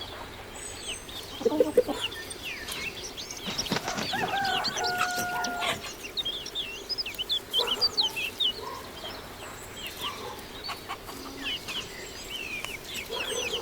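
Chickens clucking, with a held call from a rooster about five seconds in, over a steady run of small birds chirping.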